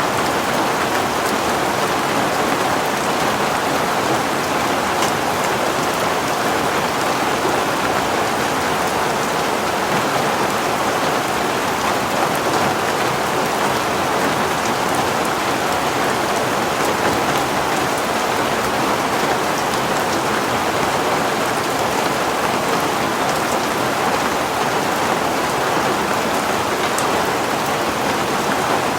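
Heavy rain falling steadily, a dense even hiss with fine drop patter on a surface.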